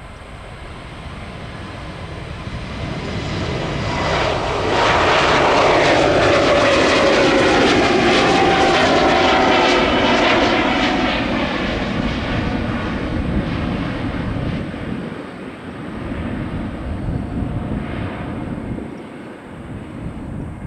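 Jet airliner passing close by: its engine noise swells, holds loud for several seconds, then eases off, with whining tones sliding down in pitch as it goes past.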